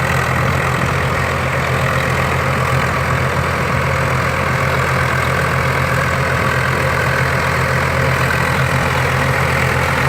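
Swaraj tractor's diesel engine running steadily at a constant speed.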